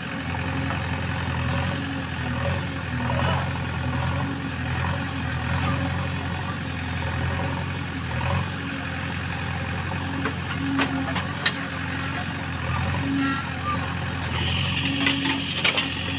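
Heavy diesel engine running steadily, with a few sharp metallic knocks near the end.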